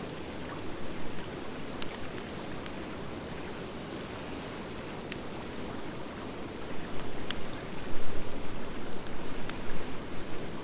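Wood fire crackling in a fire pit: a few sharp pops scattered over a steady rushing noise, growing louder and more uneven about two-thirds of the way in.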